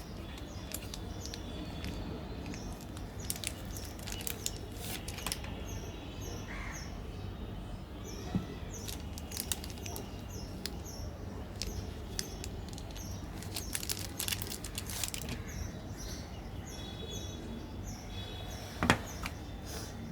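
Birds chirping repeatedly in the background over a steady low rumble, with scattered small clicks and a sharper knock near the end.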